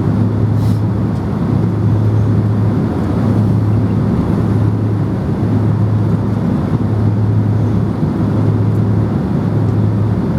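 Steady low hum and rushing air noise inside a Boeing 767-300ER passenger cabin.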